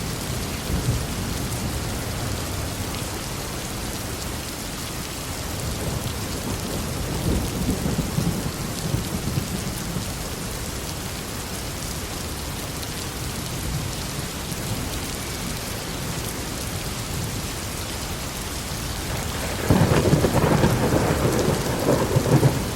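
Steady heavy rain with rolling thunder rumbling underneath, and a sharper, louder thunderclap crackling in near the end.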